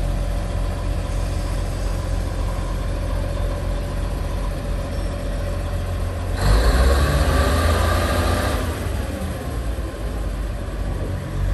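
Diesel railcar engine running steadily with a low hum. About six seconds in, a louder stretch of roughly two seconds with a wavering pitched sound rises over it, then fades back to the steady hum.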